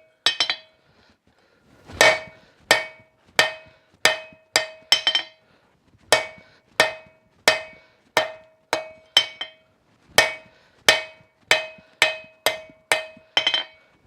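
Blacksmith's hand hammer striking a hot steel bar on an anvil, each blow ringing, about one and a half blows a second with short pauses about a second in and near the middle. This is the forging of a set-down shoulder on a tong half.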